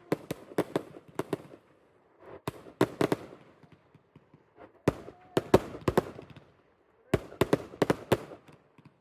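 Fireworks going off in quick runs of sharp bangs, four bursts of rapid reports with short pauses between them.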